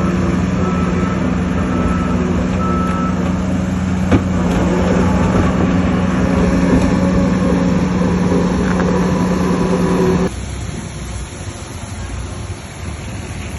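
Heavy diesel earthmoving machinery running steadily, with a reversing alarm beeping at an even pace that stops about three seconds in. A single sharp knock comes about four seconds in. About ten seconds in the steady engine sound cuts off abruptly, leaving a quieter rumble.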